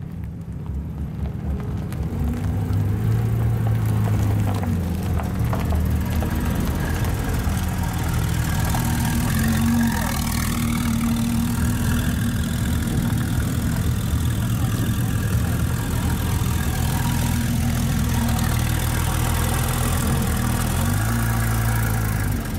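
Gemballa Avalanche GTR 650 EVO's twin-turbo flat-six, from a Porsche 911 Turbo (997), running at a steady idle with a slight change in pitch now and then.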